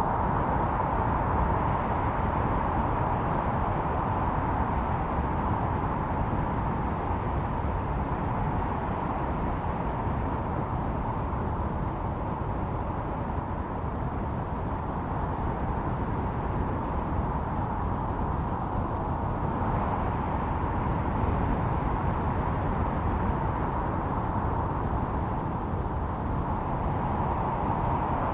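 Snowstorm wind blowing steadily, a low rumble under a whistling howl held at one pitch, swelling slightly about two-thirds of the way through.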